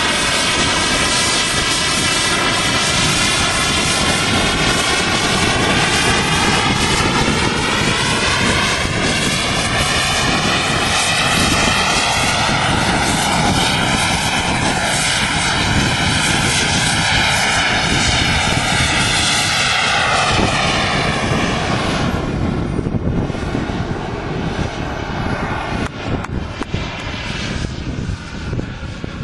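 RC model jet's engine running loud and steady in a hover, a continuous roar with a slowly sweeping, phasing tone as the jet shifts position. About three quarters of the way in the sound thins out and turns less even.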